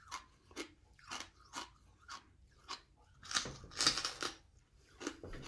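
A person chewing a lump of coal: a steady run of hard, dry crunches, about two a second, with a louder flurry of crunching from a fresh bite a little past halfway.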